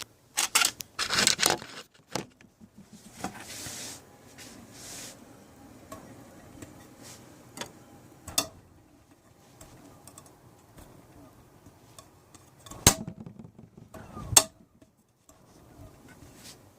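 Brushless multicopter motor being spun to check for bad bearings: a faint rough whir that lasts several seconds, with clicks from handling the metal motor near the start and two sharp knocks near the end.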